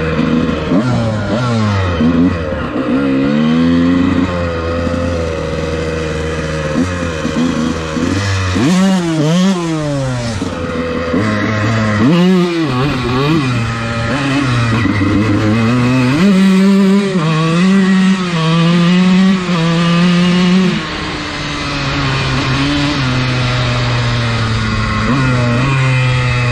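Dirt bike engine running under riding load, its pitch rising and falling as the throttle opens and closes, with several quick revs in the middle and a steadier held pitch later on.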